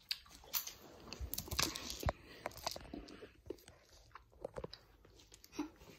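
Close-up chewing of sweets: irregular crisp crunches and small clicks from a mouthful being chewed, busiest in the middle.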